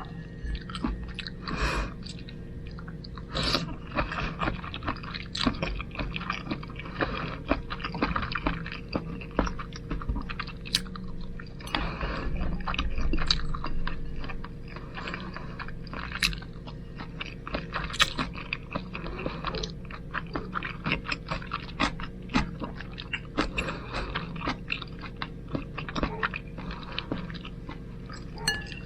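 Close-up eating sounds of a person chewing spaghetti with the mouth near the microphone: wet smacks and clicks, slurps and swallows, with a steady low hum underneath.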